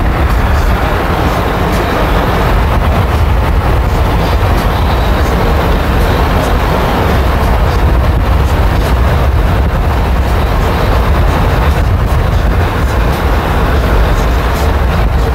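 Steady road and engine noise of a moving car heard from inside the cabin, a continuous low rumble with hiss above it that does not let up.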